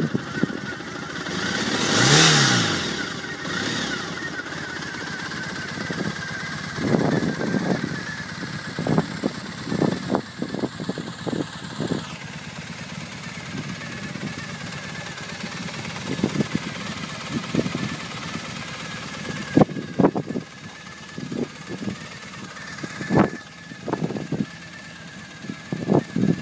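2012 Triumph Bonneville SE's 865 cc air-cooled parallel-twin engine running at idle, revved once about two seconds in with a rising then falling pitch. Short sharp knocks come and go over the steady idle.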